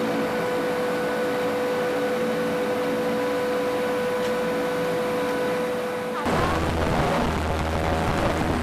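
Propeller aircraft engines heard from inside the cabin, a steady hum with a clear pitched note; about six seconds in the sound changes abruptly to a louder, deeper drone as engine power comes up for takeoff.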